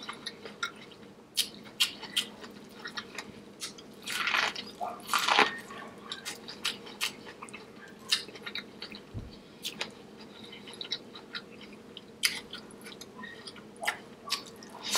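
Close-miked eating: a person chewing seafood boil in butter sauce, with wet mouth sounds and many short clicks scattered throughout. There is a longer noisy stretch between about four and five and a half seconds in.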